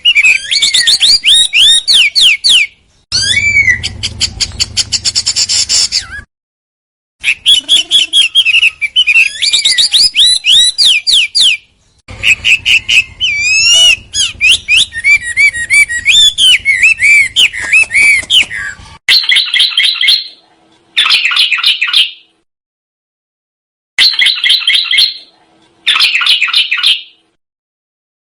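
Recorded songbird song used as masteran: dense, fast rolls of high whistled and sweeping chirped notes in long bursts broken by sudden short silences. From about two-thirds of the way through come four harsh, buzzy calls, each about a second and a half long, with pauses between.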